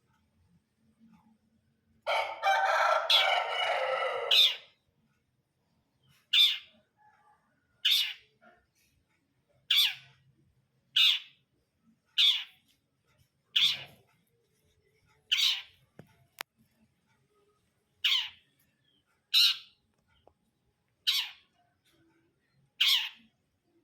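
Long-tailed shrike (cendet) calling: a string of short, sharp, falling notes repeated about every second and a half. Near the start there is a single harsh, grating call that lasts about two and a half seconds.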